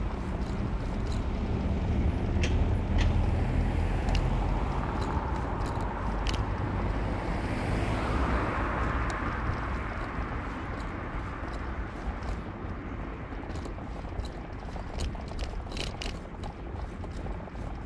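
Street traffic heard during a ride: a steady low rumble, with a vehicle passing whose hiss swells and fades about seven to nine seconds in, and scattered light clicks.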